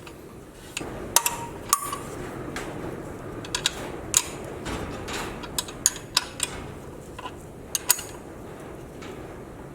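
A 15 mm wrench tightening an idler pulley bolt: irregular sharp metallic clicks and taps from the wrench and bolt, over a steady background rush.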